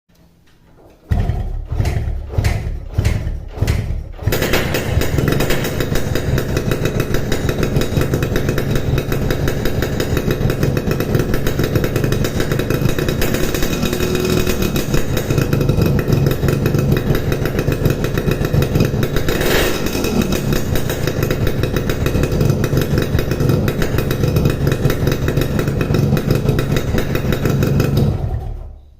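Yamaha RX King 135cc two-stroke motorcycle exhaust through a Boban C33 muffler fitted with an Altech C17 baffle insert. About five short throttle blips come first, then the engine runs continuously for over twenty seconds and stops shortly before the end.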